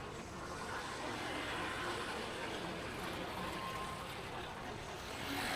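Steady ride-along noise from a motorbike moving through city traffic: engine and road noise with a rushing wash of air, unbroken throughout.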